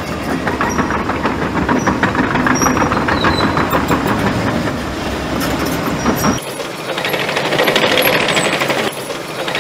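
Heavy earthmoving machine's diesel engine running with a fast, loud clattering rattle. About six seconds in, the deep engine sound cuts off and a higher, hissing rattle takes over.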